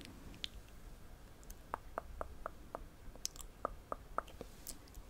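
ASMR mouth sounds close to the microphone: soft wet mouth clicks, starting about a second and a half in and coming irregularly at about three a second.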